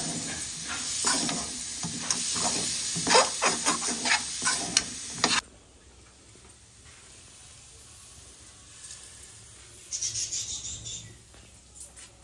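A spoon stirring and scraping black chickpeas frying in spiced oil in a metal wok, with a steady sizzle and quick scraping strokes. It cuts off suddenly about five seconds in, leaving only a low background with a short soft rustle near the ten-second mark.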